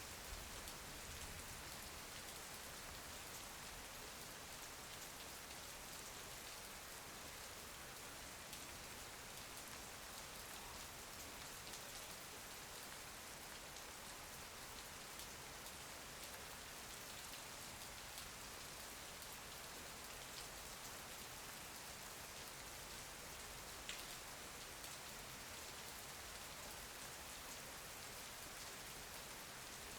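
Steady rain falling, a soft even hiss with scattered faint drop ticks.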